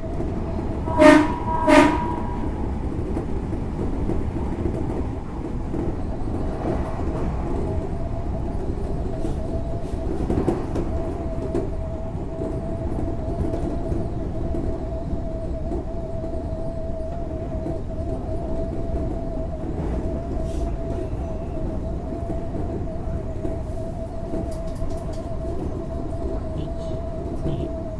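Odakyu 8000 series electric train giving two short toots of its horn about a second in, then running on with steady rail and running noise and a constant hum.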